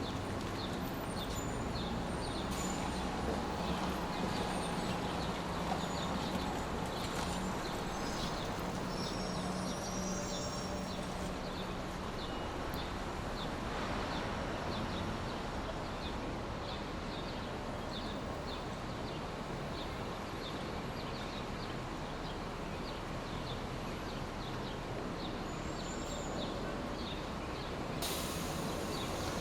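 Steady hissing noise of a sleep-noise track, with a faint regular ticking about twice a second and scattered high chirps over it; a low hum underneath fades out about halfway through.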